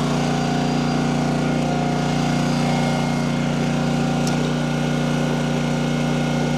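Gas engine running steadily at constant speed, an unbroken low hum.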